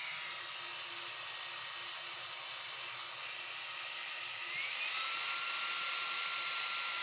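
Xiaomi Mi Handheld Vacuum Cleaner Mini running: a steady high-pitched motor whine with a rush of air in its low power mode. About four and a half seconds in it switches to the stronger mode, and the whine rises to a higher pitch and holds there.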